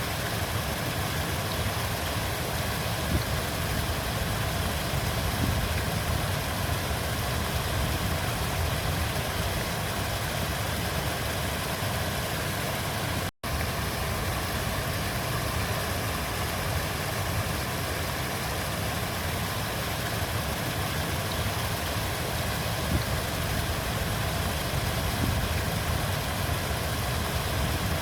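River water flowing steadily, an even rushing with a low rumble. The sound cuts out completely for an instant about thirteen seconds in.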